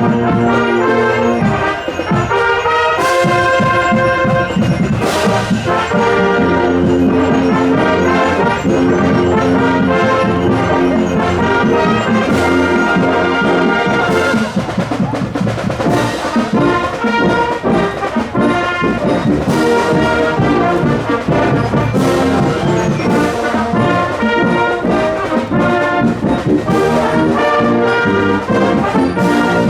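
A school wind band playing brass-led music while marching, with trumpets and trombones carrying the tune and percussion crashes every couple of seconds.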